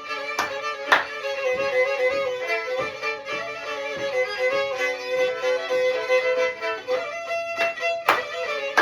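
Black Sea kemençe, a small bowed fiddle, playing a fast instrumental melody over a held drone note, with a steady beat of light knocks behind it.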